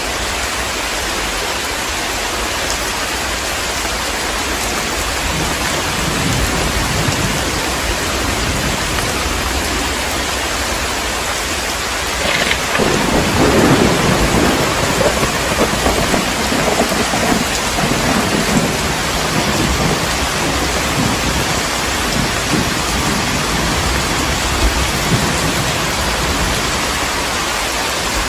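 Heavy rain falling steadily, with a distant thunder rumble, then a sharper thunderclap about halfway through that rolls on for several seconds before fading back under the rain.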